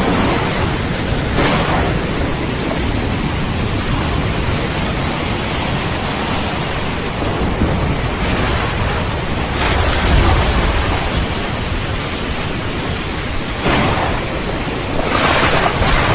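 Steady heavy rain with rolling thunder in a thunderstorm. A deep rumble swells about ten seconds in, and sharper crackles of thunder flare a few times, the last near the end.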